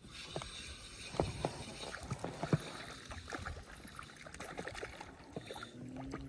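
Irregular knocks and clicks of gear being handled in a small fishing boat, over a steady rushing hiss that starts suddenly at the beginning.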